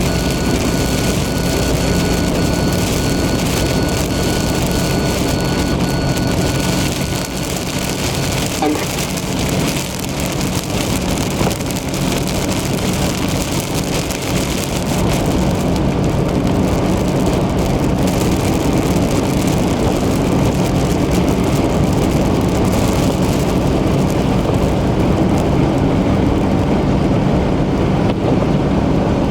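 Car driving at highway speed through heavy rain, heard from inside the cabin: a steady wash of rain hitting the car and tyres on wet pavement over a low engine and road hum. A thin, steady high tone sounds for the first several seconds and stops about seven seconds in.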